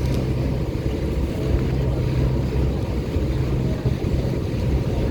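Cruise boat's engines running with a steady low drone, with wind noise on the microphone.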